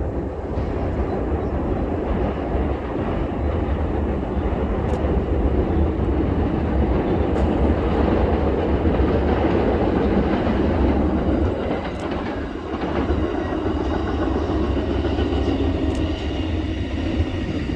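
A train crossing a steel truss drawbridge: a steady, loud rumble with wheel clatter over the rails.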